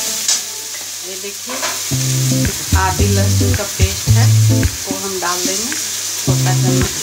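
Potato and brinjal pieces sizzling in oil in a kadhai while a metal spatula scrapes and clinks against the pan as they are stirred. Background music with a low, rhythmic bass line plays over it.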